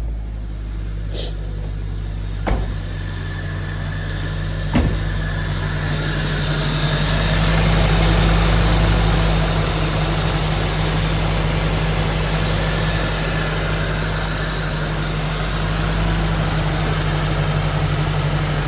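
Toyota AE86 Sprinter Trueno's four-cylinder engine idling steadily just after a true cold start, with no ticking or knocking. Two sharp clicks sound about two and a half and five seconds in.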